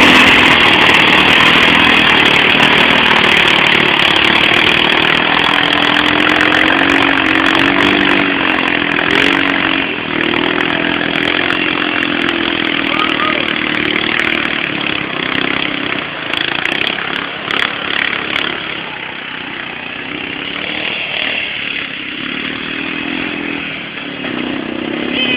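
A small motor vehicle engine running hard at high revs, its pitch wavering as the throttle changes. It is loudest at first and fades noticeably after about sixteen seconds.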